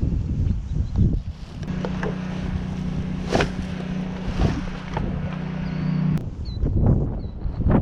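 Wind buffeting the microphone with rustling and knocks, under a steady low hum that runs for a few seconds and cuts off suddenly about six seconds in.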